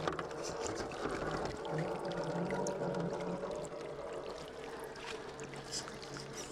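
Running water, with the low whine of an RC crawler truck's electric motor underneath that climbs a little in pitch around two seconds in.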